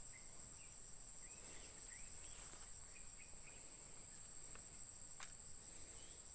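Steady, faint, high-pitched insect chorus, with a few short chirps over it and a single sharp click a little after five seconds in.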